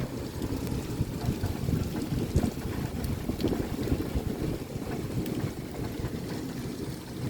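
Heavy rain beating on windows during a thunderstorm: a steady low rumbling wash with scattered faint ticks of drops.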